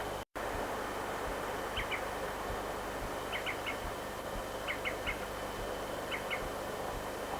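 A bird calling short, quick notes in groups of two or three, repeated about every second and a half over a steady background hiss. The sound briefly drops out just after the start.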